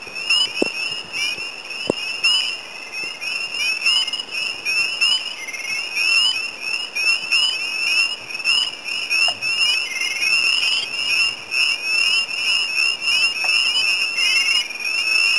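Chorus of spring peepers: many short, rising, high-pitched peeps overlapping, several a second.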